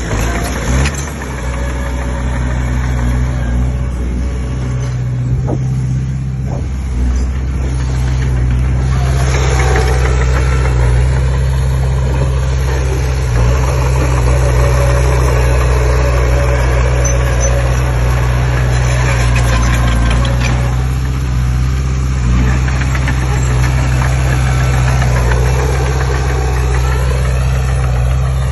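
Komatsu D20P bulldozer's diesel engine running steadily at work, a constant low drone with clatter and scraping above it that rises and falls.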